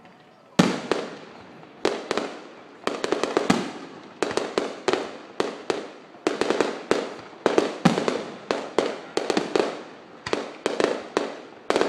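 Fireworks going off in rapid succession: a long run of sharp bangs, several a second, starting about half a second in and continuing, each with a short echoing tail.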